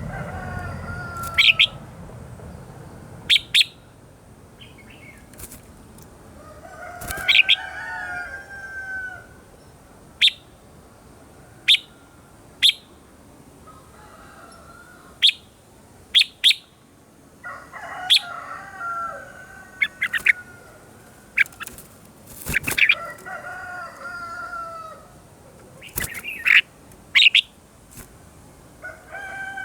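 Red-whiskered bulbuls singing: short, sharp, loud notes every second or two, between lower warbling phrases that slide up and down.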